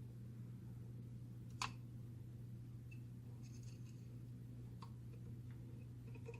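Low steady hum with a single sharp click about a second and a half in, a few faint ticks, and a softer click near the end: small parts being handled during work on a laser printer fuser unit.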